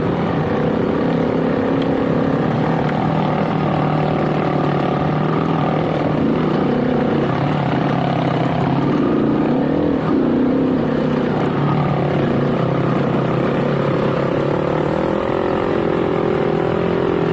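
Motorcycle engine running steadily while under way, its pitch wavering up and down with the throttle.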